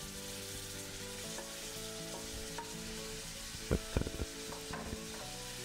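Vegetables and sliced tomatoes sizzling in hot oil and ghee in a pan, a steady hiss of frying. A few quick knocks against the pan come about two-thirds of the way through.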